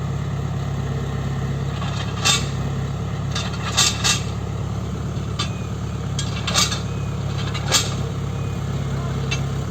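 Tata Hitachi Zaxis 120 excavator's diesel engine running steadily, with about five sharp knocks over it, two of them close together midway.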